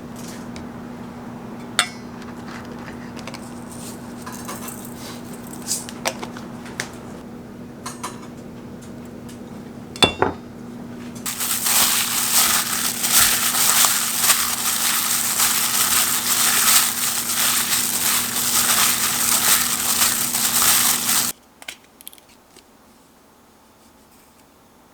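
Kitchen food-prep sounds: scattered light clicks and clinks of utensils over a steady low hum. About ten seconds in, a dense crackling starts and runs for about ten seconds, then cuts off abruptly.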